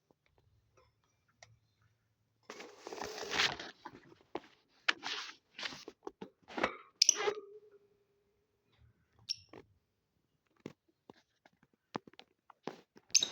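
Lovebirds moving about in a cage, making irregular scratching and crunching noises, with a longer rustle about three seconds in.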